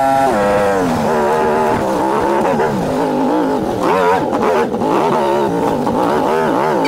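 Yamaha Ténéré adventure motorcycle engine under way on a rough rocky trail. The revs fall within the first second, then rise and fall repeatedly with short throttle openings.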